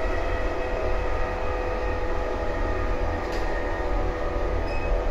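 JNR 185-series electric train running at a steady speed: a continuous low rumble with several steady whining tones over it, unchanged throughout.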